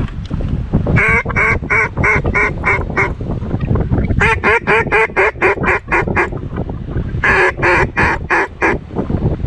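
Duck call blown in three sequences of quacks: about seven, then a faster run of about eleven, then about six. The calling is meant to draw ducks in, and it sits over heavy wind rumble on the microphone.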